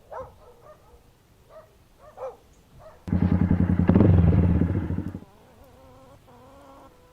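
A low mechanical buzz that pulses evenly, loud for about two seconds near the middle and then stopping, like a mobile phone vibrating on a hard surface for an incoming call.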